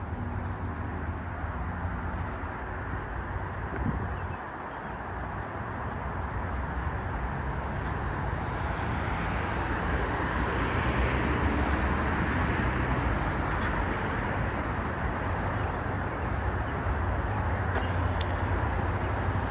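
Road traffic noise: vehicles passing on the road alongside, a steady rushing of tyres and engines with a low hum, swelling about halfway through and easing off again.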